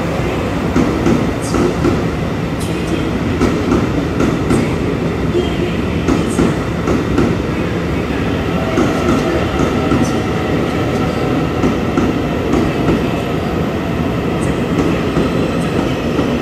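Steady loud rumbling of a vehicle in motion, with faint ringing tones over it and scattered sharp clicks.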